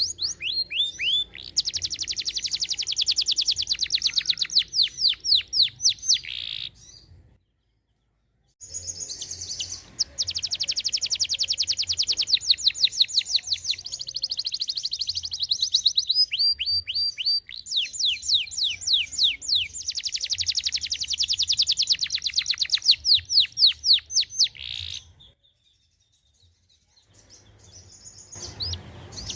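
Domestic canary singing: long, fast trills of repeated high notes, many of them quick downward sweeps, broken twice by pauses of a second or two.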